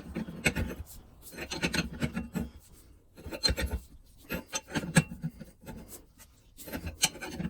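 Ball joint press screw being cranked by hand in short repeated strokes, about one every second, as it forces the lower ball joint out of a Ford Super Duty Dana 60 steering knuckle.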